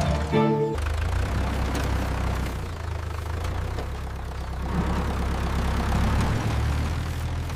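Tractor engine running steadily with a low, even hum; it dips slightly in level midway and comes back up.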